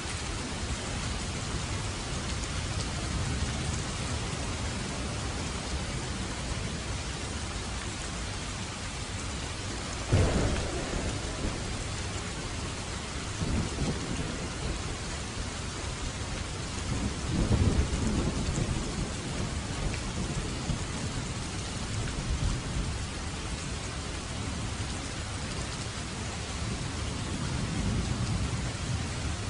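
Steady heavy rain with rolls of thunder: a sharp clap about a third of the way in, then several low rumbles through the rest.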